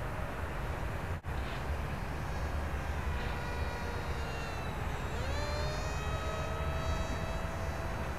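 Whine of an RC model plane's electric brushless motor and small propeller in flight, its pitch rising about five seconds in as the throttle opens. A low steady rumble runs underneath.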